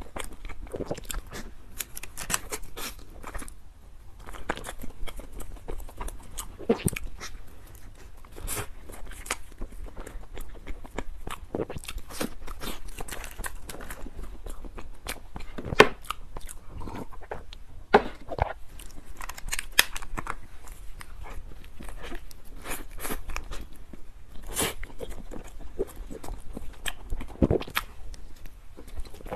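Close-miked chewing and wet mouth sounds of someone eating soft cream-filled buns and snow-skin mochi (xuemeiniang) dusted with Oreo cookie crumbs, full of sharp smacks and clicks.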